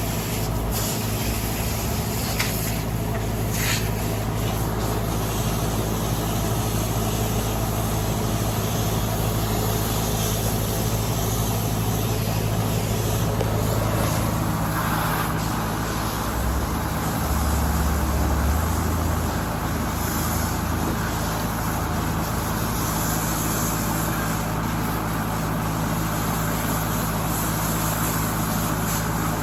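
Air-conditioning condenser unit running: a steady hum with fan noise. About halfway through, the hiss grows brighter.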